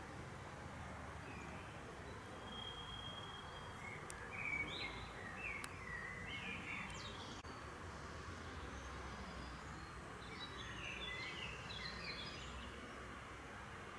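Songbirds chirping in short bursts of quick notes, twice, over a steady low background hum of outdoor noise.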